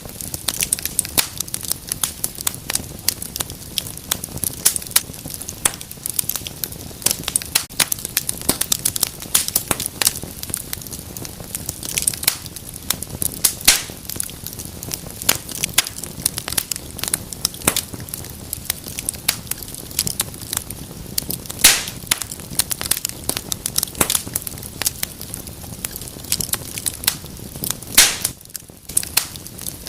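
Wood fire burning in a fireplace: constant irregular crackling over a low steady rumble, with a few louder pops and snaps.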